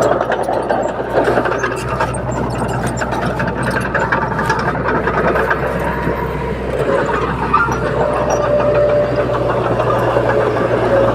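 Komatsu D21P crawler bulldozer working, its diesel engine running steadily with many short rattles and clanks over it. A steady whine comes in about seven seconds in.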